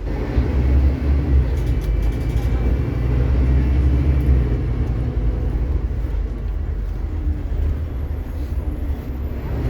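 Scania K360IB bus's rear-mounted five-cylinder diesel engine and drivetrain heard from inside the moving bus: a steady low drone, louder for the first four seconds or so and then easing off a little.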